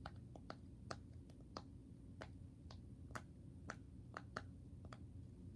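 Light, sharp clicks from a handheld fidget toy being worked with the fingers, a dozen or so unevenly spaced at roughly two a second.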